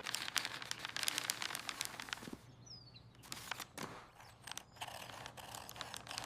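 Dense, irregular crackling and rustling made of many small clicks, with a faint high chirp about two and a half seconds in.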